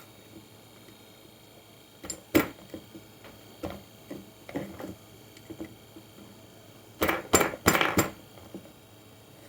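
Hard objects handled and set down: a loud knock about two seconds in, a few lighter clicks, then a quick run of four sharp knocks near the end.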